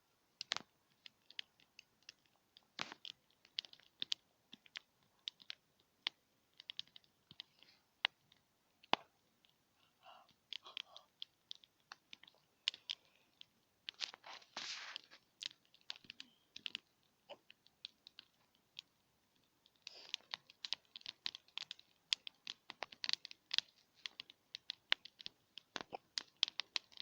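Small wood campfire crackling, with irregular sharp pops and snaps; a short hiss comes about halfway through, and the crackling grows denser in the last several seconds.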